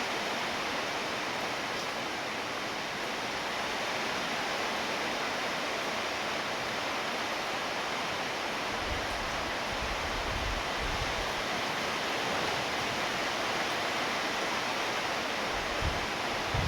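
Steady heavy rainfall, an even unbroken hiss, with low rumbles breaking in about halfway through and again near the end.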